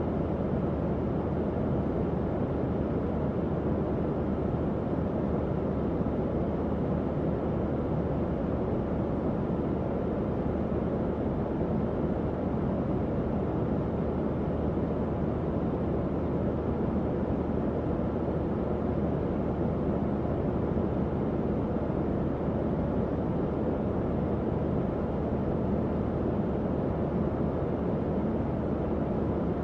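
Tower fan running steadily: an even, low airy whoosh with a faint low hum.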